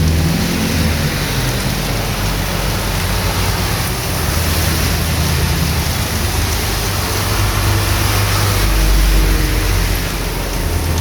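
Heavy rain falling steadily on a street, a dense even hiss. Under it runs the low hum of a passing vehicle's engine, which swells about nine seconds in.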